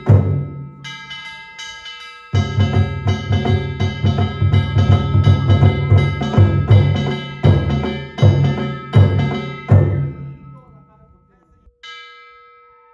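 Danjiri narimono: drums and hand-struck metal gongs (kane) playing a fast, driving rhythm, which stops about ten seconds in. The gongs ring on as it fades, and one more gong stroke comes near the end.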